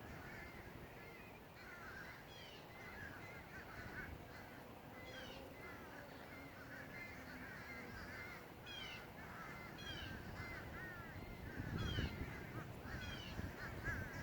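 A flock of birds calling together: many short, overlapping chirps and calls, with crow-like caws among them.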